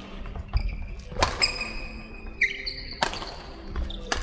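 A series of hard knocks and clinks from objects being handled, several of them ringing briefly after the strike, mixed with low thuds.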